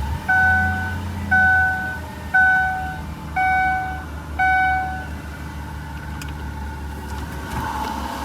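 Car warning chime ringing six times, about once a second, over a steady engine hum, followed by a couple of faint clicks.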